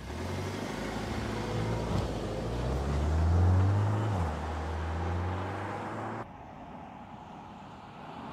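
Volkswagen Tiguan SUV engine accelerating away, its note rising with the revs to a peak about three and a half seconds in, then dropping sharply at an upshift. About six seconds in the sound cuts abruptly to a quieter, duller steady road hum that grows a little toward the end.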